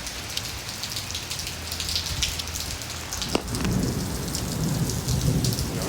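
Heavy rain pouring steadily. About three and a half seconds in comes a sharp crack of thunder, followed by a low rolling rumble that builds.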